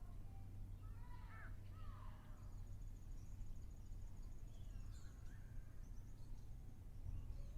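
Wild birds calling: several short curved, falling call notes, with a fast high-pitched trill from about two seconds in, over a steady low rumble.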